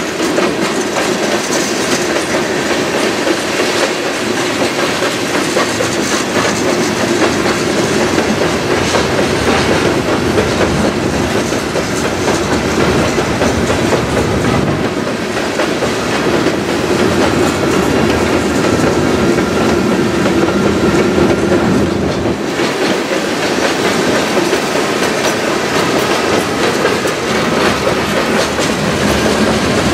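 Freight train of covered hopper cars rolling past close by: a steady rumble of steel wheels on the rails with a continuous clickety-clack of wheels passing over the track.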